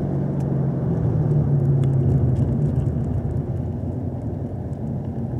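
Chevrolet Camaro SS 1LE's V8 running at low revs in second gear as the car slows down, with tyre and road noise. The engine note swells a little about a second in, then settles lower as the revs drop.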